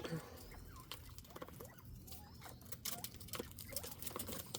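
Bobwhite quail giving short, soft chirping calls, mixed with scattered light ticks and taps from the flock moving about.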